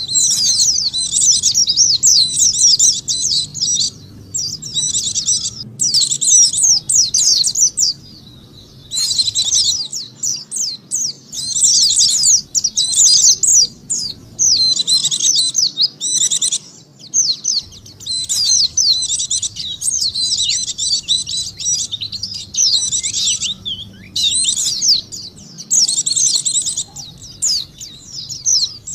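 White-eye (pleci) song used as a lure call: long runs of rapid, high-pitched twittering, broken every few seconds by brief pauses.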